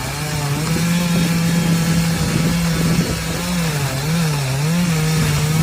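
An engine running steadily, its pitch wavering up and down a few times in the second half.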